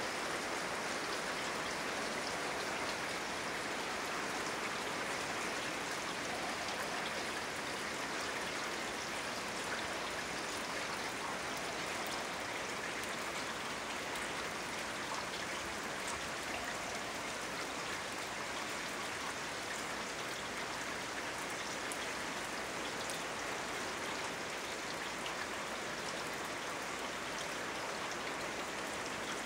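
Steady rain falling, with a few sharper drops ticking now and then.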